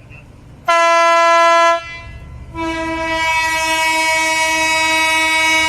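Alishan Forest Railway train's horn sounding twice, a short blast about a second long and then, after a brief gap, a longer steady blast, over a low rumble.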